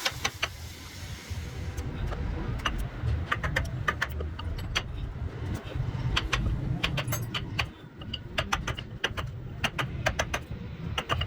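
Irregular sharp clicks and light taps, a few ringing briefly, over a steady low rumble.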